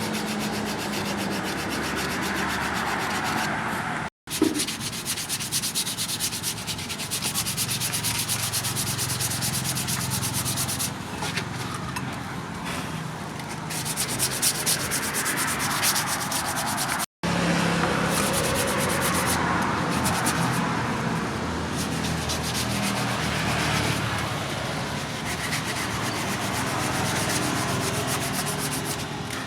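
Continuous sanding on the knife, a steady abrasive rasping, broken twice by brief drop-outs to silence, about four and about seventeen seconds in.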